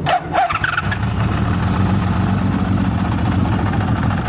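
Honda CBX 1000's air-cooled inline six-cylinder engine idling steadily. Two short sharp sounds come in the first half second.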